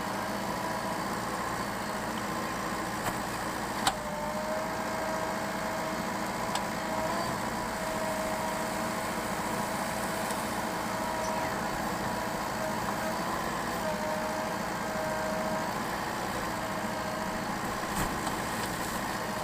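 JCB backhoe loader's diesel engine running steadily at low revs, with a steady whine over it. A single sharp knock about four seconds in.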